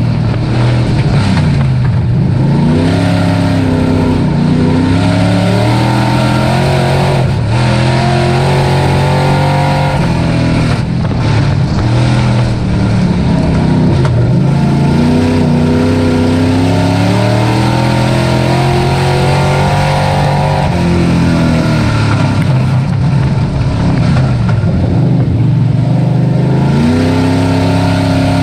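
Dirt-track race truck engine at racing speed. Its pitch drops off and climbs back up about every six seconds, five times in all, as it lifts off and gets back on the throttle lap after lap.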